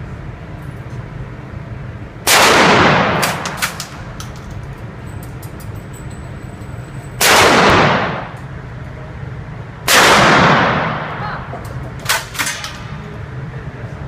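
Three loud gunshots, at about two, seven and ten seconds in, each echoing and dying away over about a second, with a few fainter sharp cracks in between.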